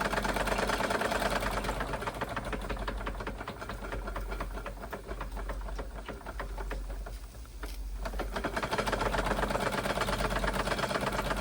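Wilesco D32 model steam engine running with a fast, even mechanical beat. It grows quieter through the middle, dips briefly about seven and a half seconds in, then comes back to full strength.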